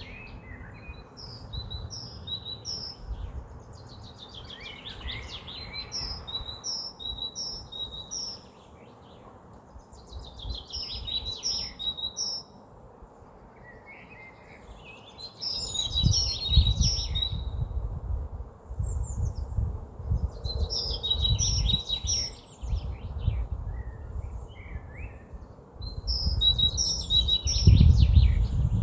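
A small songbird repeats the same short song phrase about every four seconds: a fast run of notes dropping in pitch, then a few high notes. Wind rumbles on the microphone from about halfway through and is loudest near the end.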